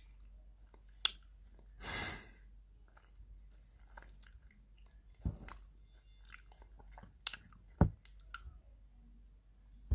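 A person chewing food with the mouth closed, close to the microphone, with small wet clicks and smacks. A short breathy rush comes about two seconds in, and two sharp low knocks, the second the loudest, come in the middle and near the end.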